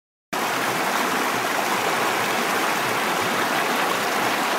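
Rushing water: a loud, steady, even rush that cuts in suddenly just after the start.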